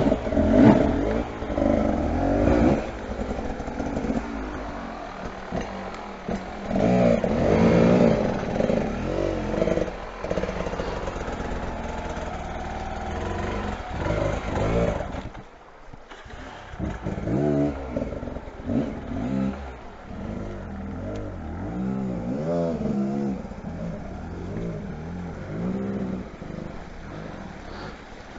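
Motorcycle engines revving up and down again and again, with a short drop in level about halfway through.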